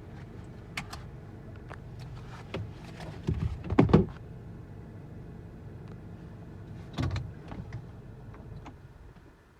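Steady low hum of a parked car still running, heard from inside the cabin, with clicks and a few thumps of someone moving about and handling things in the car, loudest about four seconds in and again around seven seconds. The hum stops near the end as the car is switched off.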